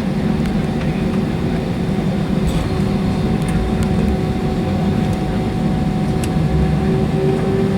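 Airbus A320's IAE V2500 turbofan engines running with a steady low rumble and a steady hum, the hum rising slightly in pitch near the end.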